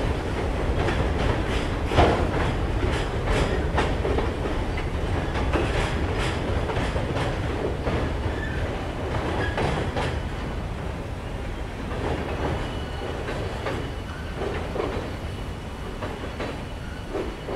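Slow freight train's last cars rolling away, wheels clicking and knocking over the rail joints over a low rumble, slowly fading as the train moves off.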